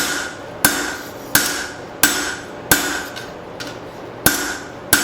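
Hand hammer striking hot leaf-spring steel on an anvil. It lands seven blows at a steady pace of about three every two seconds, with one longer pause partway through, and each blow rings briefly. The steel is being drawn out and thinned into a knife handle.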